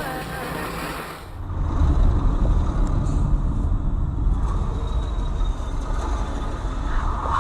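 Steady low rumble of a moving vehicle, engine and road noise, after a short stretch of music that cuts off about a second in.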